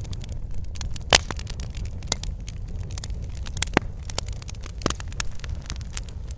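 Fireplace fire crackling: irregular sharp pops and snaps over a low, steady rumble of flames, with the loudest pop about a second in.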